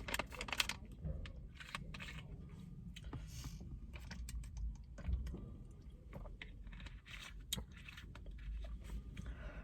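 Close-miked chewing with irregular crunches as someone eats crunchy food.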